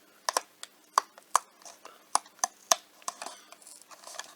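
Blind box packaging being handled and opened by hand: a series of about a dozen sharp, irregular clicks and taps.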